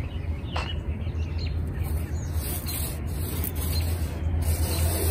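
A few faint bird chirps, one a quick downward note about half a second in, over a steady low rumble.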